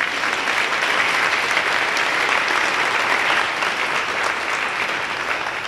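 Concert audience applauding, a dense steady clapping that tapers off slightly near the end.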